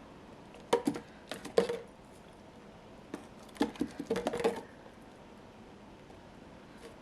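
Kitchen items being handled and set down: a few light knocks and clicks about a second in, then another cluster between three and four and a half seconds in.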